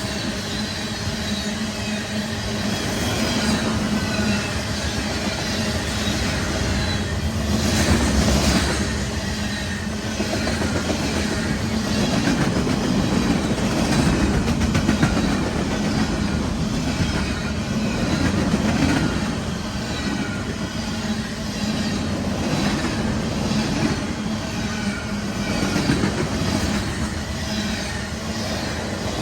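CSX manifest freight train's cars rolling past, wheels clicking over rail joints over a steady rolling rumble.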